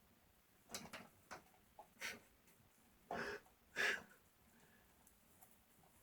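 A pet animal's short, noisy breaths: about half a dozen quick puffs, the two loudest coming about three to four seconds in.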